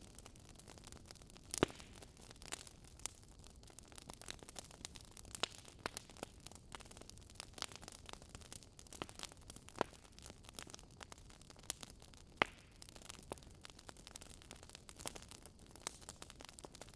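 Wood fire crackling: irregular sharp pops and snaps, several a second, over a faint steady hiss, with louder pops about a second and a half in and again about twelve seconds in.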